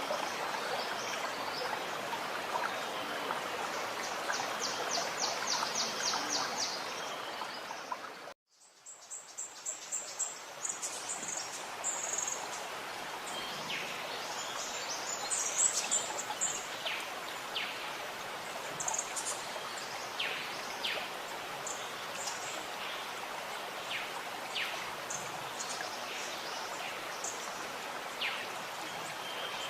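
Gurgling stream water running steadily, with songbirds calling over it: a fast trill of rapidly repeated high notes around five seconds in, then short high chirps scattered through the rest. About eight seconds in the sound cuts out for a moment and fades back in.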